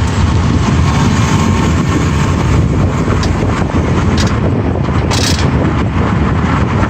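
Mitsubishi Outlander Sport under way: steady, loud road and wind noise, heaviest in the low range, with a couple of short knocks or rattles about two-thirds of the way through.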